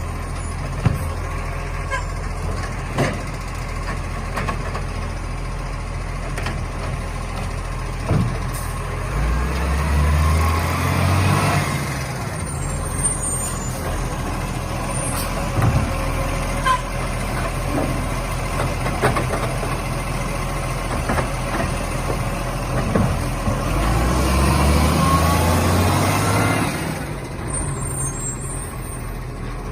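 Garbage truck engine running steadily, revving up twice for several seconds with a rising and falling whine over it, as when the engine speeds up to drive the truck's hydraulics. Scattered sharp knocks and clunks throughout.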